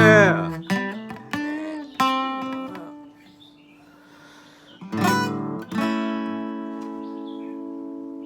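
Acoustic guitar ending a song: a few single plucked notes, a short pause, then a strummed final chord that rings out and slowly fades.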